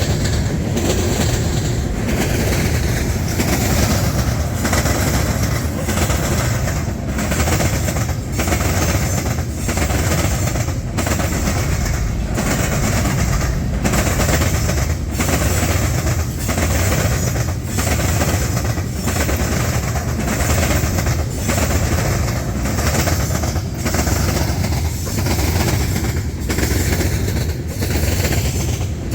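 Canadian National freight train's cars rolling past, the wheels clacking over the rail crossing diamond in a steady rhythm of about one beat a second over a continuous rumble.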